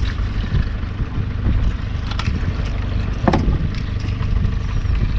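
Fishing boat's engine running with a steady low rumble, with a few short knocks about two and three seconds in.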